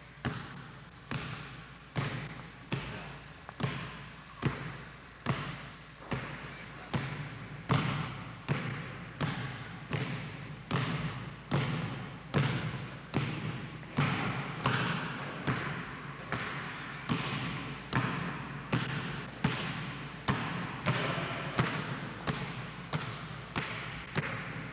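Basketball dribbled on a gym floor: steady, evenly spaced bounces a little over one a second, each ringing briefly in the hall.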